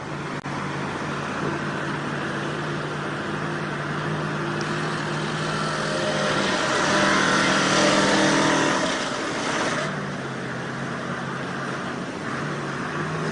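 The engine of a heavy vehicle running steadily. It grows louder and works harder towards the middle, then eases off about ten seconds in.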